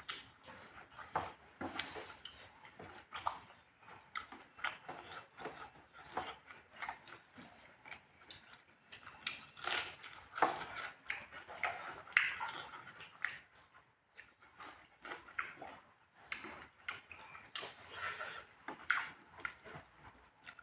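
A person chewing and smacking while eating spicy pork close to the microphone: a quick, irregular run of short wet mouth clicks.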